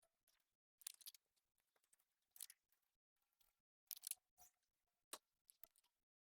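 Faint, scattered crisp snips and crunches, about one a second, from hand work while planting.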